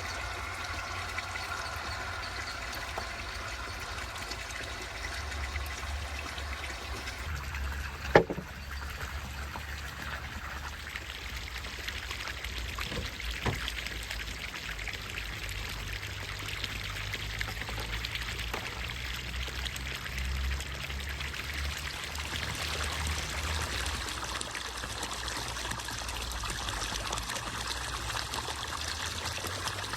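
Water trickling and splashing steadily, with a sharp knock about eight seconds in and a fainter one a few seconds later.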